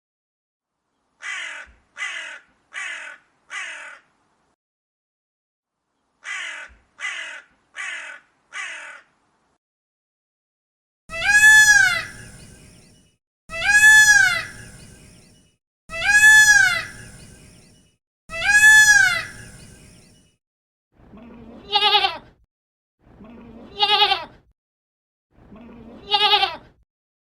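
A series of animal calls in four runs of four: two runs of short harsh calls, then four long calls that rise and fall in pitch, then four shorter wavering calls near the end.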